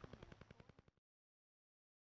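Rapid, even ticking of the Duga over-the-horizon radar signal, the 'Russian Woodpecker' radio interference, at about ten taps a second. It fades and cuts off about a second in.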